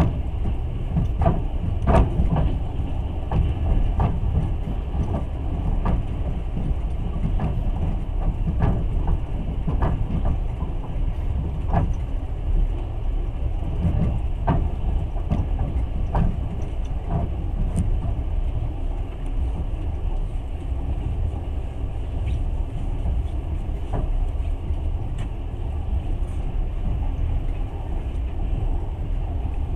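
Passenger train running on the rails, heard from inside a carriage: a steady low rumble of wheels and car body, with sharp clicks every second or two at uneven spacing as the wheels cross rail joints.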